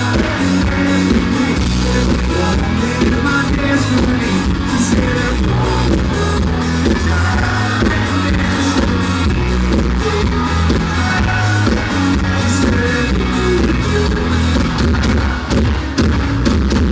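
Country band playing live: drum kit keeping a steady beat under electric guitar and bass, with singing, in a rough, loud audience recording.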